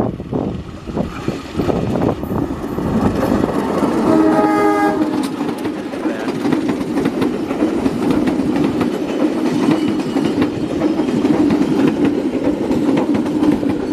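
A CC201 diesel-electric locomotive hauling passenger coaches passes close by, with knocking wheels and a steady rumble, and gives one horn blast of a little over a second about four seconds in. The coaches then roll past with a steady rumble and clatter of wheels over the rails.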